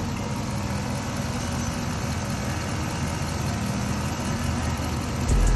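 Jeep Grand Cherokee 5.7 L Hemi V8 idling steadily with the coolant reservoir open, as the cooling system is bled of air after a radiator replacement. A loud low rumble starts just before the end.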